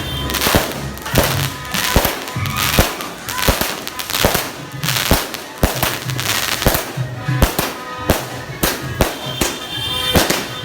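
A 100-shot fireworks cake firing shot after shot, sharp bangs about two a second.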